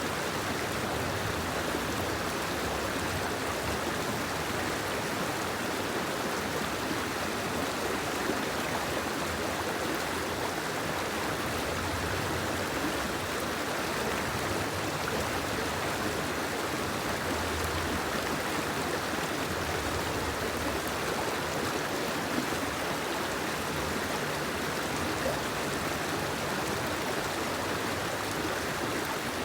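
Steady, even rushing of water, with no breaks or separate events.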